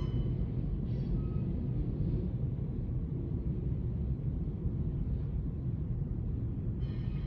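Freight cars of a passing manifest train rolling by: a steady low rumble of steel wheels on the rails.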